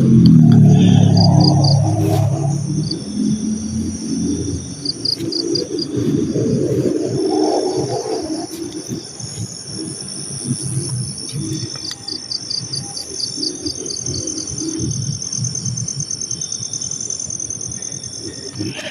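Night insects: crickets chirping in short rapid trains over a steady high-pitched insect whine, with low muffled rustling, loudest in the first two seconds.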